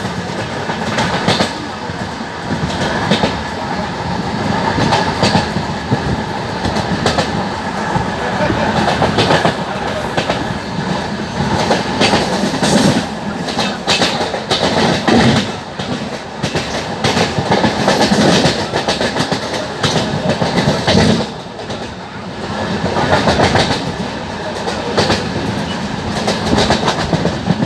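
LHB passenger coaches running at high speed, with wheels clattering over rail joints and points amid rushing wind and rumble, heard from the open coach door.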